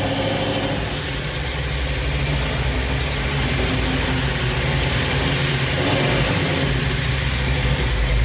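Classic Ford Mustang's carbureted V8 running at a low idle as the car creeps forward, a steady rumble that grows a little louder as it comes closer.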